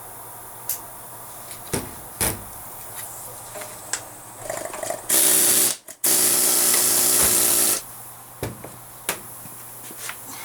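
Two spraying hiss bursts, the first under a second and the second about two seconds long, with light clinks and knocks of tools and parts before and after.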